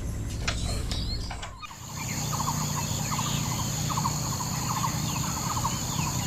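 Outdoor farmyard ambience of birds chirping and calling, with short chirps at first. After a cut about one and a half seconds in come quick rattling calls over a steady high insect-like drone and a low hum.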